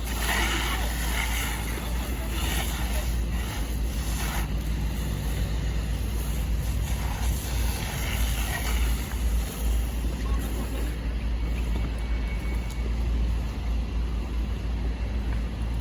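Steady low rumble of a car on the move, with road and wind noise. Faint voices in the first few seconds.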